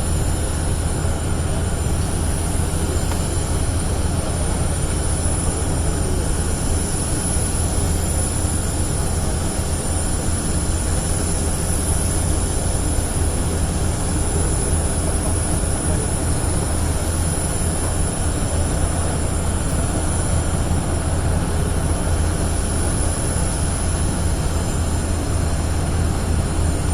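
Steady engine noise: a low, even drone with a thin high whine above it, unchanging throughout.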